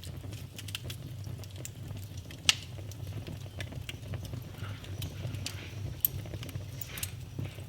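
Fire crackling in a fireplace: a steady low flame rumble with constant small crackles, and two sharp louder pops, about two and a half and six seconds in.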